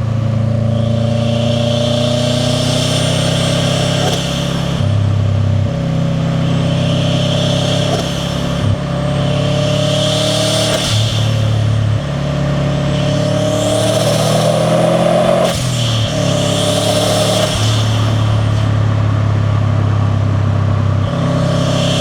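Turbocharged Subaru WRX STi flat-four engine with a catless downpipe and titanium catback, pulling hard through the gears: the engine note climbs and then drops at each shift, about five times. A rushing turbo and intake hiss rises with each pull.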